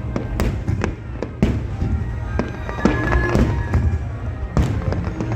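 Aerial fireworks going off in a series of sharp bangs, about ten in quick uneven succession, with music playing underneath.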